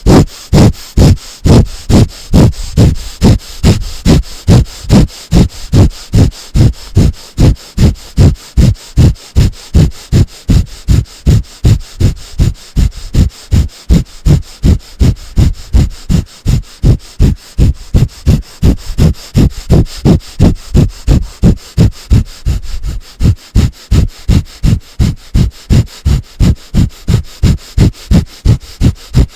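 A person doing rapid yogic breathing, forcing short breaths in and out through the nose in a steady rhythm of about two to three breaths a second.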